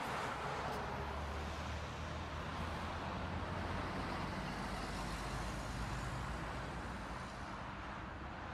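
Steady road and engine noise of a moving car, a low hum under an even rush.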